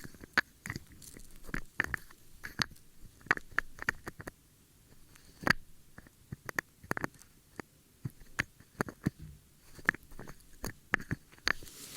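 ASMR ear-cleaning sounds: an ear-cleaning tool scratching and rubbing close to the microphone, making irregular sharp clicks and crackles, several a second, with a brief lull a little past the middle.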